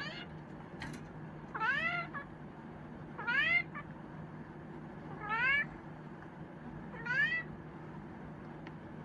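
Chinchilla Persian cat meowing four times at fairly even intervals, each meow rising then falling in pitch.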